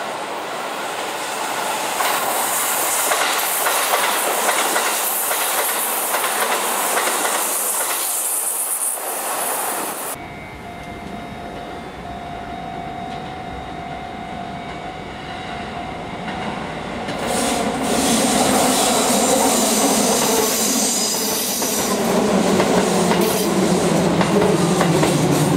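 Shin-Keisei 8800 series electric trains running by: first a loud even rush of a train passing, which cuts off suddenly about ten seconds in, then another approaching with steady tones, getting louder from about two-thirds of the way through as it comes close.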